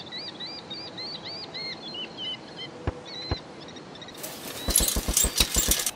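Birds chirping in a quick series of short rising-and-falling chirps, followed by two sharp clicks about three seconds in. From about four seconds in, a louder burst of noise with a rapid run of knocks, about five a second.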